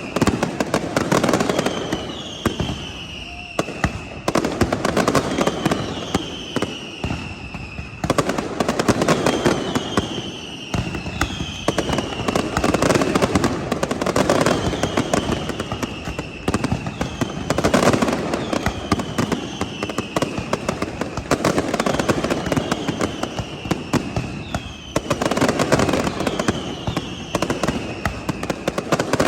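Fireworks display: dense crackling and popping throughout, with repeated whistles gliding downward in pitch every second or two.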